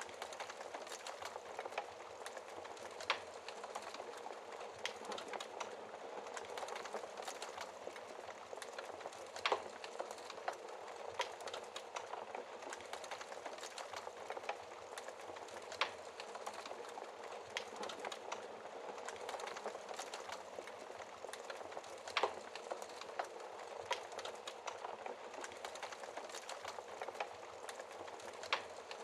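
Wood fire in a fireplace burning steadily with a constant hiss and frequent small crackles, and a few sharper pops about every six seconds.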